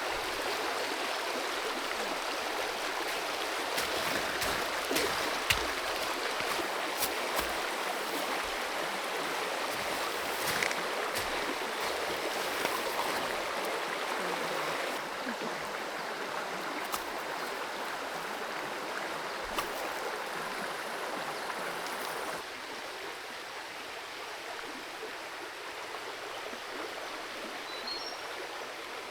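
Creek water running and rippling over stones, with a few scattered light knocks and clicks. The water sound drops a little in level about three-quarters of the way through.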